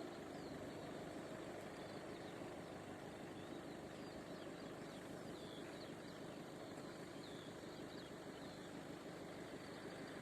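Small birds chirping in short calls over a steady low rumble of background noise.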